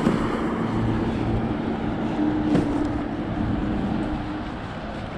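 Riding noise from a Kaabo Wolf GT Pro electric scooter under way: a steady rush of wind and road noise with a faint, steady hum. There is a brief click about halfway through.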